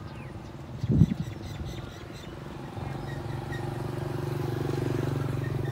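A single low thump about a second in, then a steady engine hum that grows louder toward the end, like a passing motorbike.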